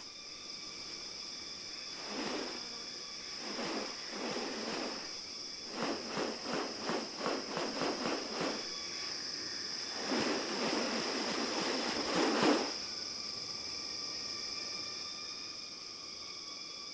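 Rainforest insects droning steadily at a high pitch. Over them come several short rasping bursts of noise, including a quick run of evenly spaced pulses in the middle and a longer burst ending near the end.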